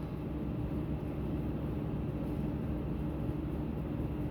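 Steady low mechanical hum with a faint steady tone: the background drone of room machinery running.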